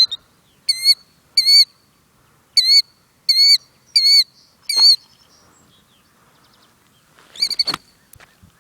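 A killdeer giving its sharp, repeated alarm calls, six short calls at about one every 0.7 seconds, then a quick run of calls with a knock near the end. It is the agitated call of a parent guarding its ground nest of eggs.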